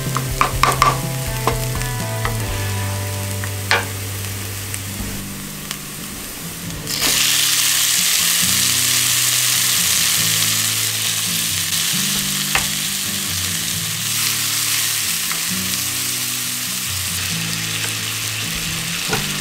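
Garlic and shallot sizzling in oil in a ceramic nonstick frying pan, with a wooden spatula scraping and knocking against the pan. About seven seconds in, tomato wedges go into the hot pan and the sizzle suddenly grows louder and carries on steadily.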